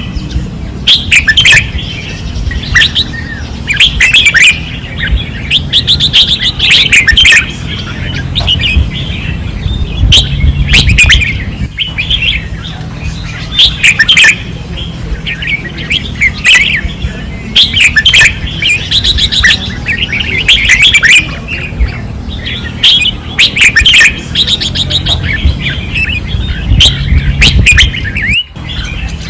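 Red-whiskered bulbuls singing loudly and without pause: short warbling phrases repeated every second or two, over a steady low rumble.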